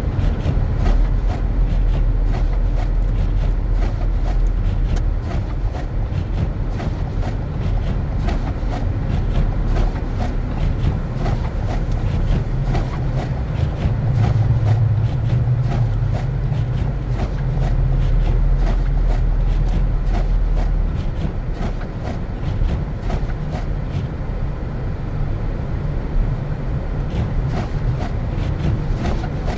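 Car driving over snowy streets: a steady low rumble of engine and tyre noise, with many small ticks and clicks.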